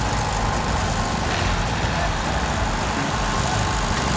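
Heavy machine's engine running steadily with a low rumble.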